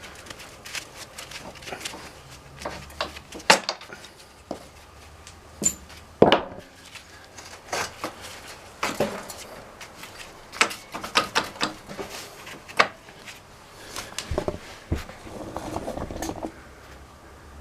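Metal parts and hand tools clanking and knocking at irregular intervals while a motorcycle engine is worked loose from its frame. Two knocks, about 3.5 and 6 seconds in, are the loudest, and there is a quicker run of clicks later on.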